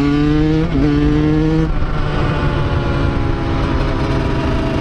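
Two-stroke dirt bike engine accelerating hard, its pitch climbing with a brief dip at a gear change just under a second in, then running at a steadier pitch from about a second and a half on.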